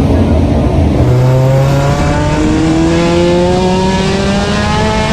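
Race car engine under hard acceleration, its pitch climbing steadily for about four seconds after a deep rumble in the first second.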